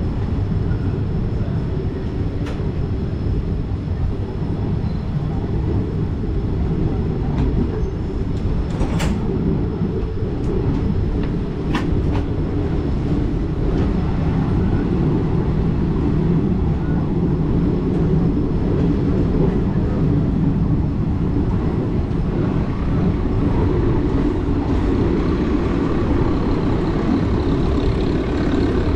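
A passenger train running along the track, heard on board: a steady rumble of wheels on rails, broken by a few sharp clicks.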